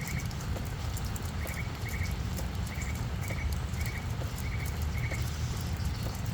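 Rain on a flower bed: scattered drops ticking and pattering over a steady low rumble. A small chirp repeats about every half second through most of it, like a cricket.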